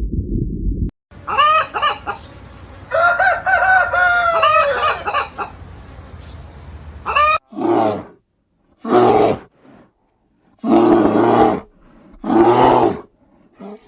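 A rooster crowing, a long call that rises and holds, followed by four separate shorter, lower calls.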